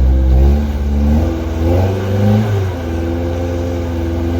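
Off-road vehicle's engine revving under load, the revs climbing and dropping twice, then held steadier.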